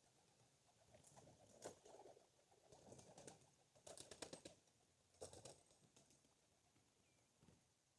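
Faint young racing pigeons at the loft: about four short bursts of rapid wingbeats as birds flutter out and take off.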